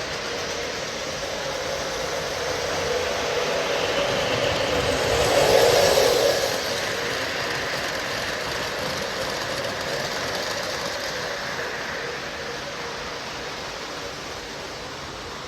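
O scale model train, two Lionel Lion Chief Dash 8 diesel locomotives pulling tank cars, running on the track with a steady rumble and a faint motor hum. It grows louder as it passes close about six seconds in, then fades as it moves away.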